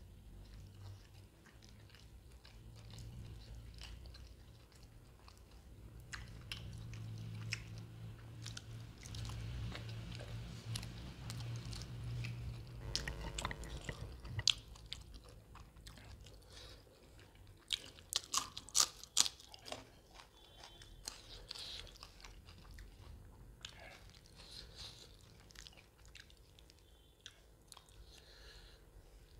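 Close-miked chewing and mouth sounds of a person eating mutton curry with soaked roti by hand, with soft wet clicks throughout and a cluster of sharp crunching clicks about two-thirds of the way through.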